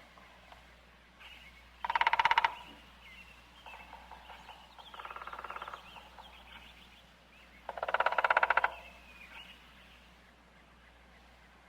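A large bird calling: two loud, rapid rattling calls about six seconds apart, with a softer call between them and faint chirps of other birds behind.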